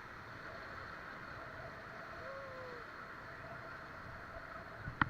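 Steady, fairly quiet rush of river water around a paddle raft, with a sharp knock just before the end.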